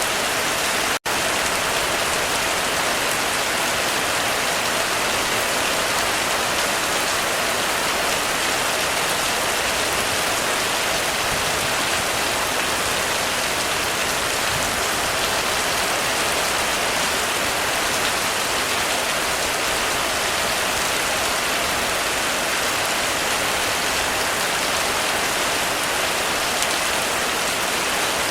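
Heavy rain falling steadily on a roof, a dense even hiss, broken by a split-second gap about a second in.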